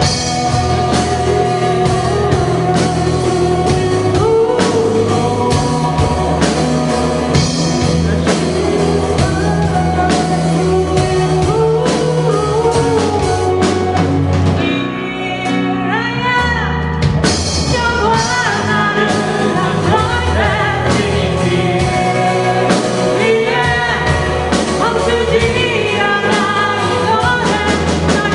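A band performing a song with a lead singer and a full backing band. About halfway through, the low instruments drop out for a couple of seconds while the singing carries on, then the band comes back in.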